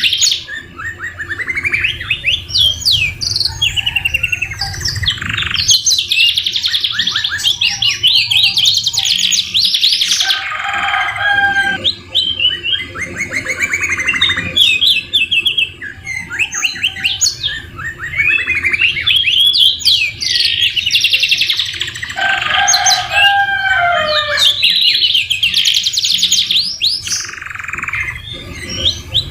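Canary singing a long, nearly unbroken song of rapid trills and rolls, with brief pauses. The song is filled with phrases imitating the white-rumped shama (murai batu).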